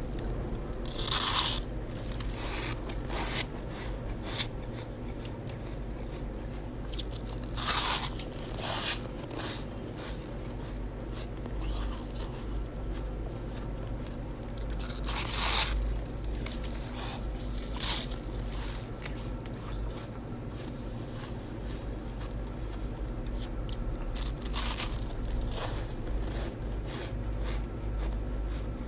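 Chest-freezer frost ice crunching as it is bitten and scraped. A few loud crunches come several seconds apart, with softer crunching between them, over a steady low hum.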